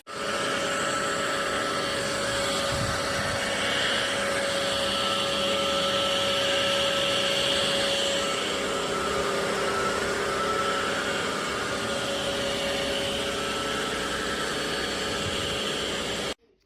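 Ultenic U16 Flex cordless stick vacuum running steadily, a whine over a rush of air, cutting off suddenly near the end.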